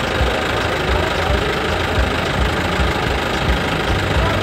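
An engine running steadily, with an uneven low pulse underneath.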